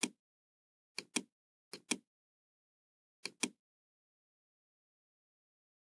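Computer mouse button double-clicking: three quick pairs of sharp clicks, about a second, two seconds and three and a half seconds in, with dead silence between.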